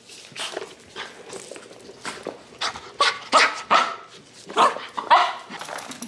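A pet dog barking and yipping in a run of short, quick bursts, louder from about three seconds in.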